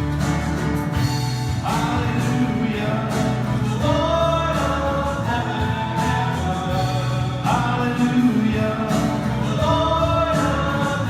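Worship song with voices singing over instrumental accompaniment and a steady bass line, in phrases that start again about two seconds in and again past the middle.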